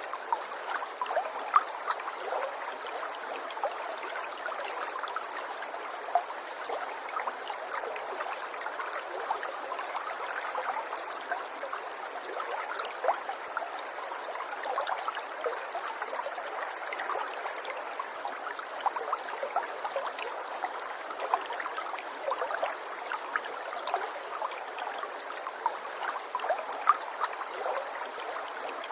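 Running water flowing steadily, with many small splashes and gurgles throughout and no deep rumble.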